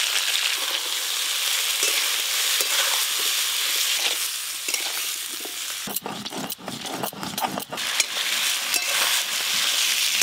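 Cut potatoes, eggplant and green beans sizzling steadily as they fry in oil in a wok. About six seconds in the sizzle gives way to rough scraping and knocking: a stone roller being worked over a stone grinding slab to grind dried red chillies and cumin.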